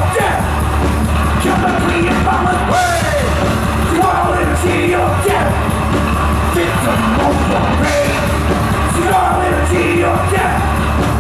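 Thrash metal band playing live at full volume, with a steady heavy drum and bass pounding under dense guitars and shouted vocals.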